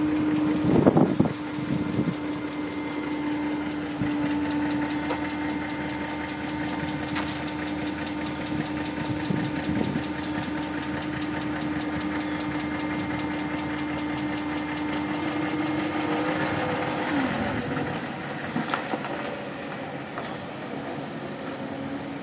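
BMW E38 7 Series engine running with a fast, regular ticking noise. A steady tone runs beneath it and stops about seventeen seconds in.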